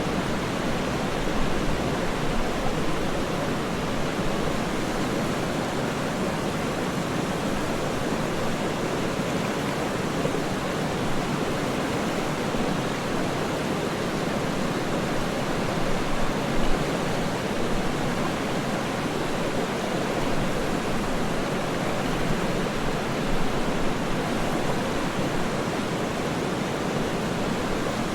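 Waterfall rushing steadily: an even, deep water noise that does not change.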